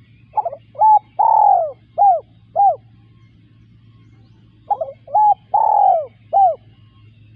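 Spotted dove cooing: two phrases of about five notes each, a stuttered opening note, short coos and one long drawn-out coo in the middle, with a pause of about two seconds between phrases.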